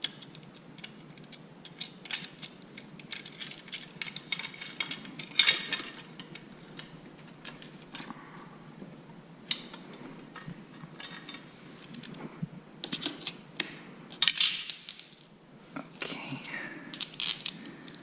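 Small metal hardware and tools clinking, tapping and scraping in irregular handling, with a louder, ringing metal scrape about fourteen seconds in.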